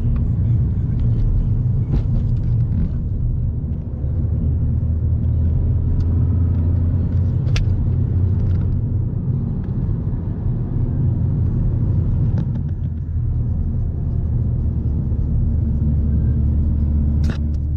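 Steady low road rumble of a car in motion, heard from inside the cabin, with a few faint clicks.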